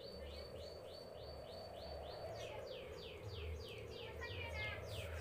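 A bird calling a long series of short down-slurred whistles, about three a second at first, then quicker and more sharply falling from about halfway, over a faint steady low background hum.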